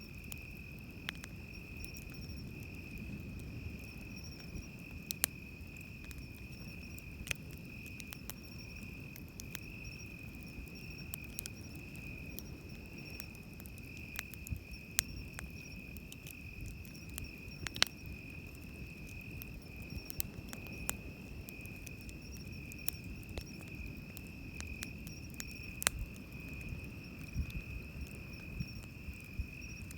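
Insects singing a steady, unbroken high trill over a low wash of waves breaking on the beach, with scattered sharp pops and crackles from a wood campfire.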